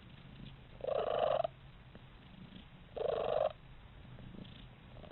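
A cat making two short, rough calls about two seconds apart, over a faint steady low hum.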